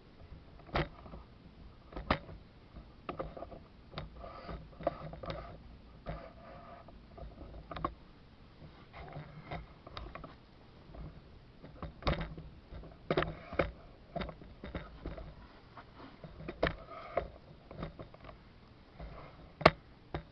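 Irregular light clicks and knocks, some in quick clusters, with one sharp click near the end, over a faint low hum.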